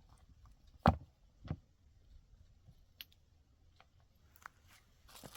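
Two sharp knocks about half a second apart, the first the louder, then a few faint clicks in a quiet room.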